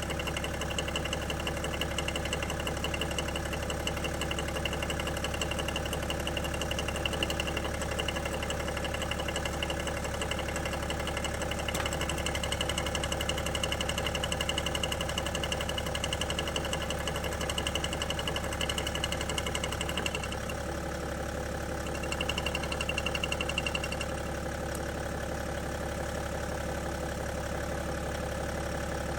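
BMW M57 straight-six diesel idling with the rhythmic knocking of its vacuum pump, a noise that is normal for this engine and that a newly fitted pump has not quietened. A higher pulsing note in the sound drops out about two-thirds of the way through and comes back briefly.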